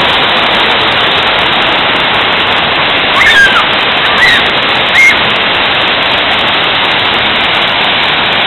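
Waterfall rushing: a loud, steady wash of falling water. A few short high calls rise above it in the middle.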